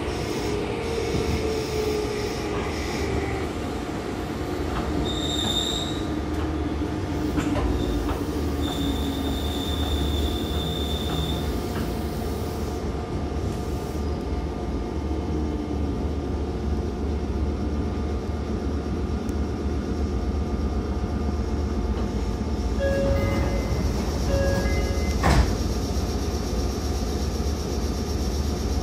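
Meitetsu 5000 series electric train running on the line, heard from inside the car: a steady low rumble of wheels on rail. A pitched whine falls in the first few seconds, brief high wheel squeals come around five and ten seconds in, and a sharp knock comes about twenty-five seconds in.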